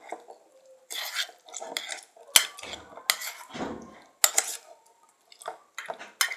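A spoon stirring and scraping a thickening glue-and-borax slime mixture in a container, with irregular scrapes and several sharp clinks against the container.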